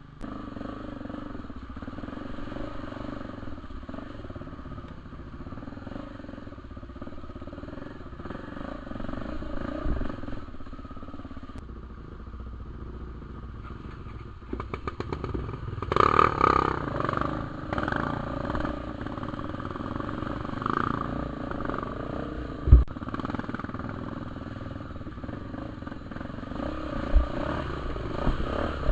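Trail motorcycle engine running on a dirt ride, with the throttle opened and eased off several times, the biggest surge about halfway through. Sharp thumps break in a few times near the end.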